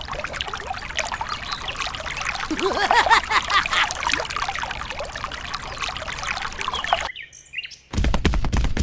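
Birds chirping over a steady sound of pouring, splashing liquid, which cuts off abruptly about seven seconds in.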